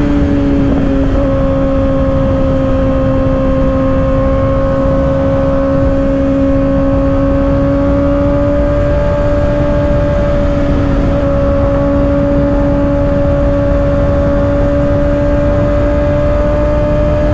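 2024 Kawasaki ZX-6R inline-four with an M4 aftermarket exhaust, running at a steady cruising engine speed at freeway pace, with wind rushing over the microphone. The engine note drops slightly in the first second, then holds nearly level.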